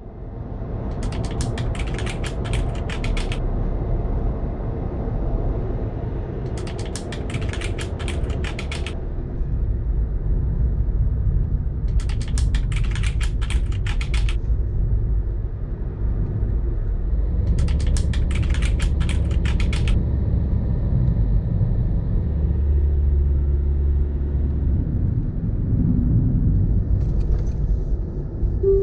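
Car being driven, heard from inside: a steady low engine and road rumble, with a short burst of rapid clicking or rattling about every five to six seconds, four times.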